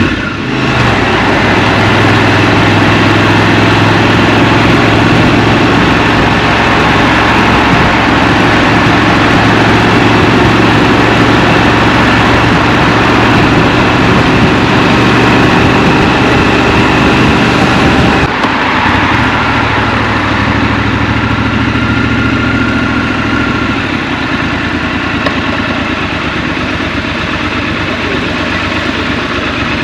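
Scrambler motorcycle engine running steadily under the rider, at a constant pitch with road noise. About two-thirds of the way through it dips briefly, then settles at a lower, quieter pitch, as if easing off or idling.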